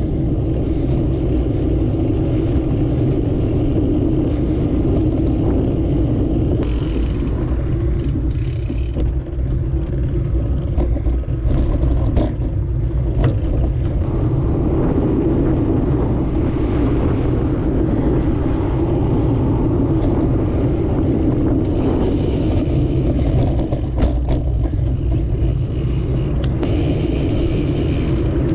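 Steady wind and road rumble picked up by a camera riding on a moving bicycle, with a few short knocks and rattles from bumps.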